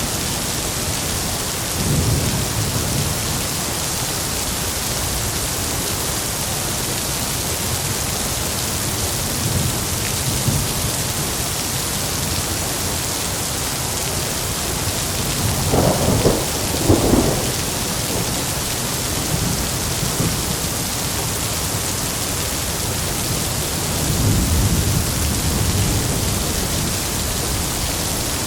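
Heavy rain falling steadily, with thunder rumbling low under it. A few seconds past the middle come two sharper cracks of thunder close together, and a longer low rumble follows near the end.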